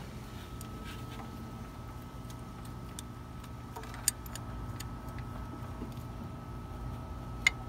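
Scattered light metallic clicks and clinks of hand tools and engine parts being handled, with two sharper clinks about four seconds in and near the end, over a steady low hum and a faint, thin steady tone.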